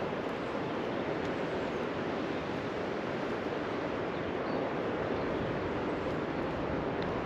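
A steady, even rushing noise with no rhythm, and a few faint high bird chirps in it.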